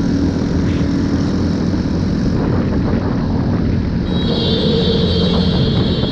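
A loud, steady engine drone with a dense low rumble. A higher steady tone joins about four seconds in.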